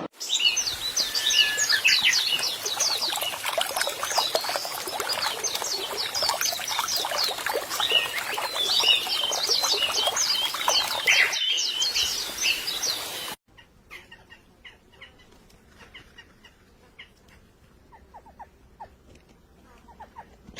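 A flock of small birds chirping densely and rapidly over a steady hiss. About thirteen seconds in it cuts off abruptly, leaving only faint, scattered chirps.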